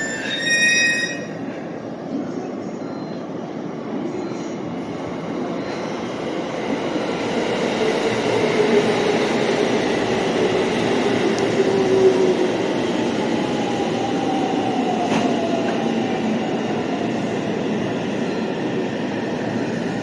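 Electric commuter train running alongside a station platform, a steady rumble of wheels on rail with a motor whine that slowly drops in pitch as it slows. A short tonal chime is heard at the very start.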